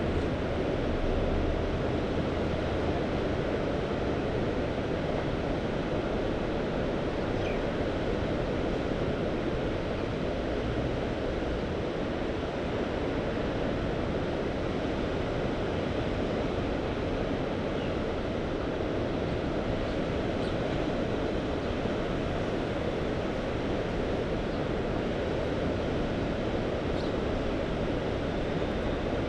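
Mediterranean sea waves washing in a steady, even surf noise, with no single break standing out.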